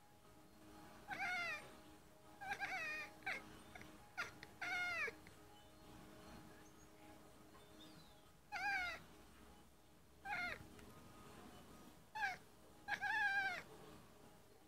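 Domestic cat chirping: about ten short chirps, each dropping in pitch at the end, in clusters of one to three with pauses between. This is the chirping a cat makes while watching birds through a window.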